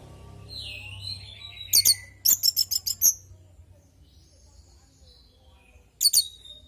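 Orange-headed thrush singing: a whistle gliding downward, then a quick run of about half a dozen sharp, high repeated notes, a pause, and another short burst near the end.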